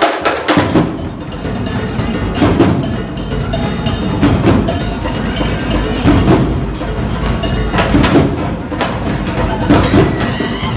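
Live drumline playing a percussion cadence: dense, sharp snare and stick hits over drums, with heavier accents about every two seconds.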